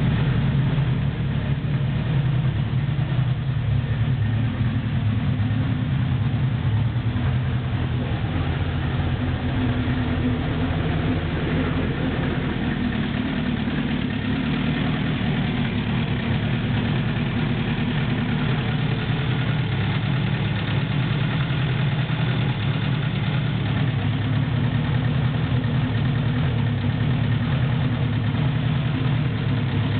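Renault 5 Alpine four-cylinder engine in a Renault 8 prototype, idling steadily.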